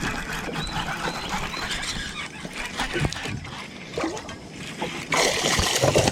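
Water splashing and sloshing beside the boat, with scattered short knocks and clicks, and a louder splash about five seconds in.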